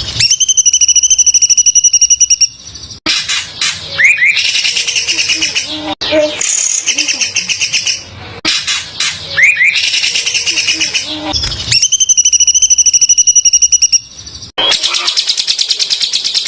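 Songbird masteran recording of rough, very dense "tembakan" song: fast runs of harsh repeated notes, about ten a second, with a few rising chirps between. The runs come in blocks of a few seconds with abrupt cuts between them, as in an edited, looped recording.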